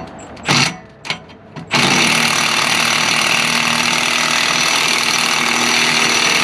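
Power impact wrench hammering steadily on an exhaust bolt to break it loose, starting about two seconds in after a few light metal clinks.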